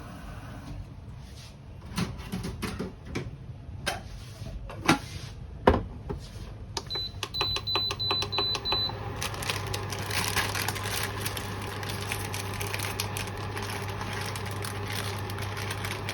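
Kitchen appliance being switched on: a few clicks and knocks, then about six quick high button beeps, after which it starts running with a steady low hum. Crackly rustling runs over the hum.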